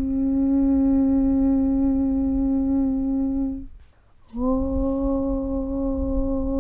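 A held 'Aum' (Om) chant on one steady low note over a low rumble. It fades out about three and a half seconds in, and after a short breath-length gap the next 'Aum' starts, sliding up onto the same note.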